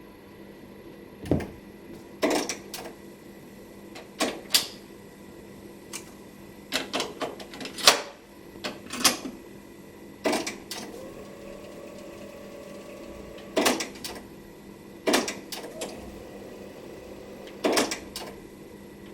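Transport keys of a JVC RC-M90 boombox's cassette deck being pressed and released, a series of a dozen or so separate mechanical clicks and clunks. A short whir of the tape mechanism runs about halfway through.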